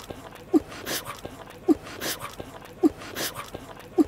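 Looped cartoon chewing sound effect: a short rising squeak followed by a wet munching smack, repeating evenly about every second, four squeaks in all.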